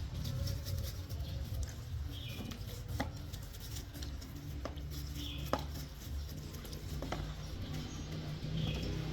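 A few light, sharp clicks and taps scattered over a steady low hum.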